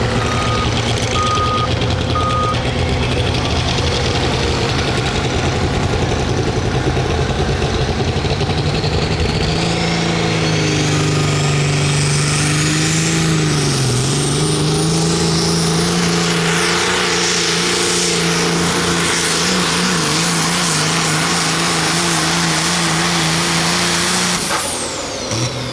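Pro stock diesel semi truck making a pull: the engine runs hard under load while the turbocharger whistle climbs to a high, steady scream. The engine pitch dips briefly around the middle, and near the end the power is cut and the turbo whistle falls away. A few short electronic beeps sound at the start.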